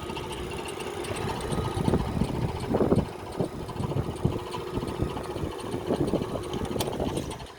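Jet JDP-15MF benchtop drill press running: a steady motor hum with irregular knocks and rattles. The sound drops off sharply just before the end.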